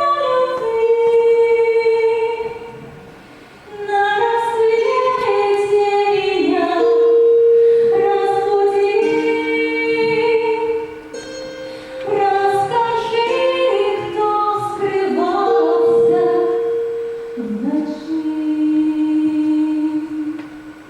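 Female voices singing in long held notes that step up and down in pitch, pausing briefly about three seconds in.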